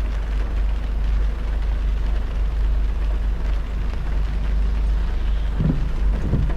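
Car driving in heavy rain: a steady low road rumble under an even hiss of rain and tyres on the wet road, with two short low swells near the end.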